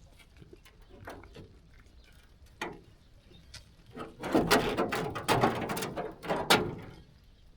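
Sheep moving about in a pen: scattered light clicks, then a loud clatter of knocks and rattles lasting about three seconds, starting about four seconds in.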